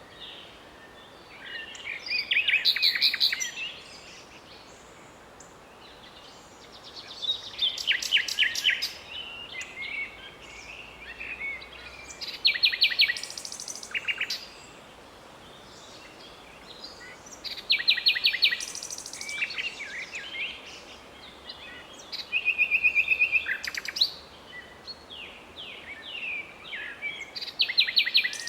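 Common nightingale singing: phrases of rapid repeated notes and rattles, each a second or two long, separated by pauses of a few seconds.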